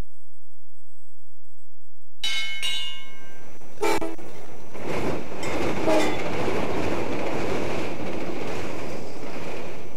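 Logo sound effect of a train, starting about two seconds in: a horn chord, then the steady rushing rumble of a passing train with a sharp knock about four seconds in. It cuts off suddenly.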